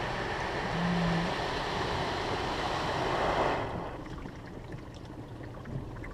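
Car wash spray arch jetting water over the car, a steady rushing hiss heard from inside the cabin, which cuts off about three and a half seconds in, leaving faint ticks.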